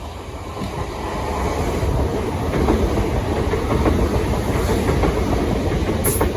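Southern Class 377 Electrostar electric train running past, its wheels clicking over the rail joints, the rumble growing louder as it comes close.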